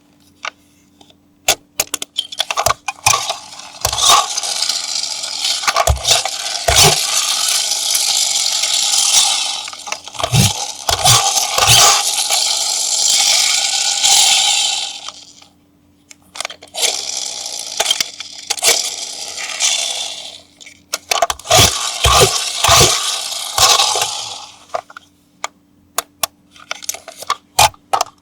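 Small plastic clicks and clatter from a toy being handled, with two long stretches of scraping noise.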